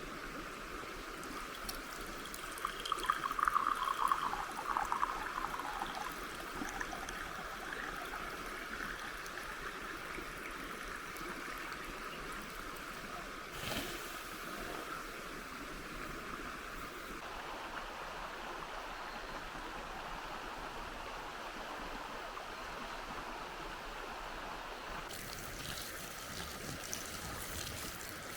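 River water flowing and trickling steadily, with a louder gurgling stretch a few seconds in and a single knock about halfway through.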